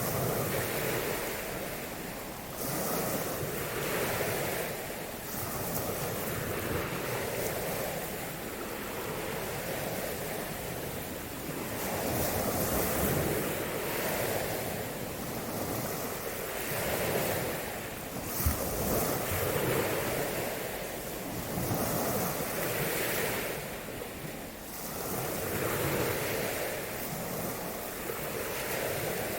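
Small waves washing on a shore in repeated swells, with wind rumbling on the microphone. A single sharp knock about two-thirds of the way through.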